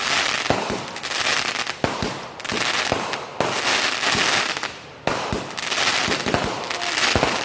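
Fireworks bursting overhead: a dense, continuous crackle of many small pops from gold crackling stars, with sharper bangs scattered through. It comes in waves with short lulls.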